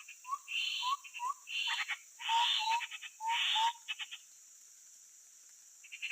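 Grey-headed babbler calling: a run of harsh, rattling chatters mixed with short whistled notes, lasting about four seconds. It pauses, then starts again near the end.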